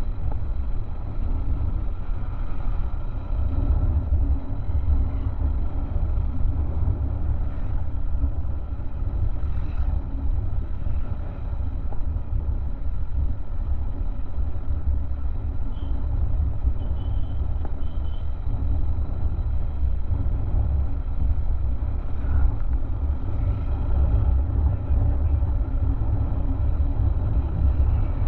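Honda XR190 motorcycle's single-cylinder engine running steadily on the move, under a heavy, constant low rumble.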